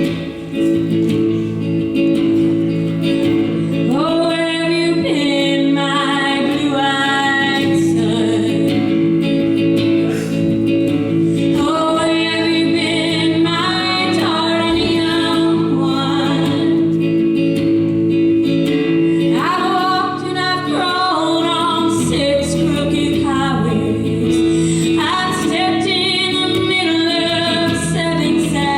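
A woman singing a slow folk song over acoustic guitar. The voice comes in about four seconds in and sings in phrases over steady, sustained chords.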